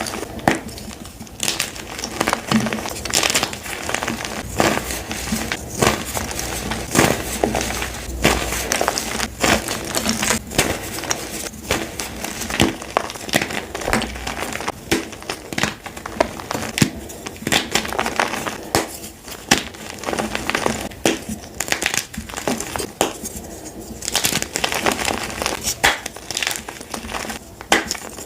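Blocks of gym chalk being crushed and crumbled by hand, a continuous dense crunching and crackling with many sharp cracks.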